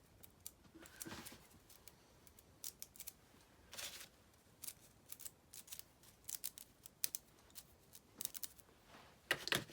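Bristle splatter brush flicked again and again to throw thinned black paint: short, irregular, crisp flicking sounds.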